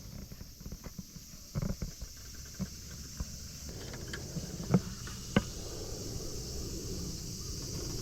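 Light clicks and knocks of small objects being handled, with two sharper clicks a little past the middle, over a steady low outdoor rumble.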